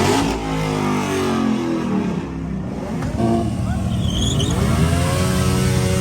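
Car engine revving: the revs fall away in the first couple of seconds, then climb again about four seconds in and hold steady near the end.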